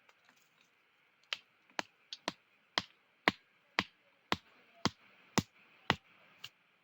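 A stone striking the top of a sharpened wooden stake, driving it into the ground: a dozen sharp knocks at about two a second, starting about a second in.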